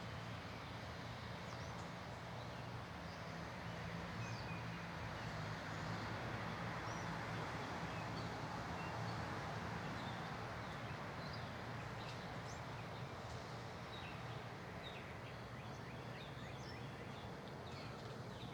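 Outdoor backyard ambience: faint short chirps from small songbirds scattered throughout and coming more often in the second half, over a steady low hum and a rushing background noise that swells a little in the middle and fades again.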